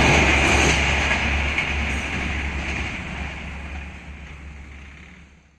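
Passenger train's last coaches rolling away along the track, a steady rumble of wheels on rail that fades gradually and cuts off near the end.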